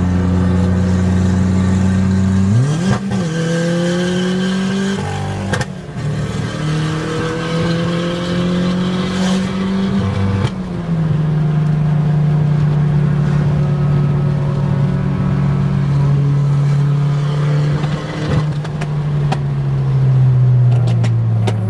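An Audi S3's turbocharged four-cylinder engine, heard from inside the cabin. It revs up and down through gear changes in the first ten seconds or so, then runs steadily at highway cruising speed. A few brief sharp snaps sound along the way.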